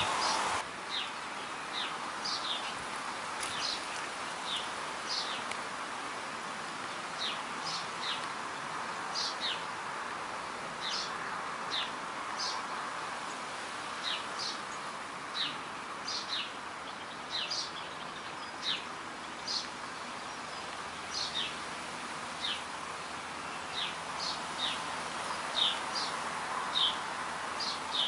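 Birds chirping: many short, high chirps, each falling in pitch, scattered irregularly at about one to two a second over a steady background hiss.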